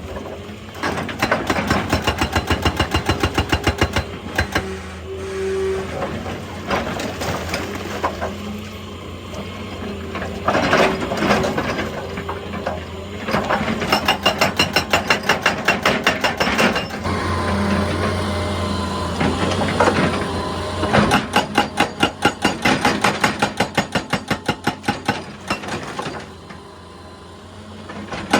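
Excavator-mounted hydraulic breaker hammer pounding rock in runs of rapid, even blows, several a second, that stop and start again several times, over the steady hum of the excavator's engine.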